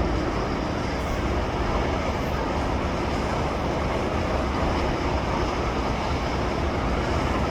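Freight train cars, mostly hoppers, rolling past at steady speed: a continuous, even noise of wheels on the rails.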